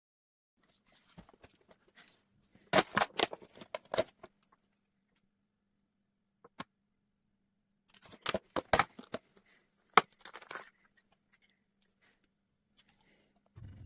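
Handling noises: two bursts of quick clicks, scrapes and rattles a few seconds apart, with a single click between them, over a faint steady hum.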